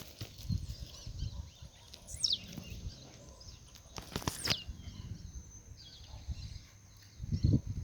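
Blue-black grassquit (tiziu) giving its short high call twice, about two seconds apart, each falling steeply in pitch. A faint steady high-pitched tone runs underneath, and low thumps come from handling or wind on the microphone, loudest near the end.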